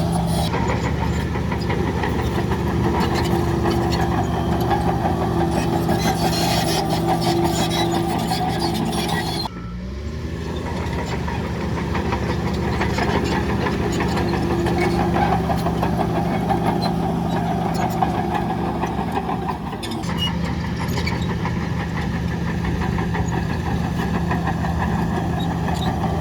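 Diesel engine of heavy earthmoving machinery running steadily under load, with a constant hum. About ten seconds in the engine note briefly drops and climbs back, and it shifts again around twenty seconds in.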